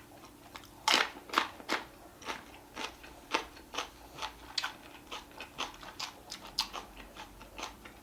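Chewing and crunching on salt-grilled pork ribs: a run of crisp, crackly bites and chews about two a second, starting about a second in and loudest at first.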